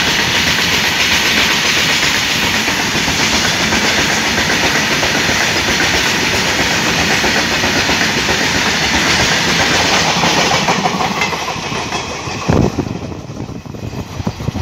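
Loaded, tarpaulin-covered coal wagons of a freight train rolling past at speed in a loud, steady rush of wheel and rail noise. After about ten seconds the noise falls away as the last wagons pass and the train recedes, with a single thump a couple of seconds later.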